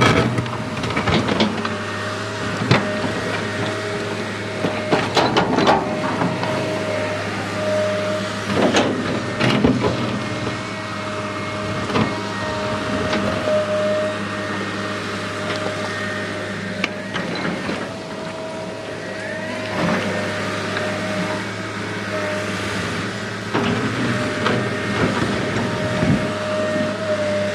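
Small electric motors and plastic gearboxes of RC toy construction vehicles running with a steady whine and hum, with frequent clicks and knocks of parts and material.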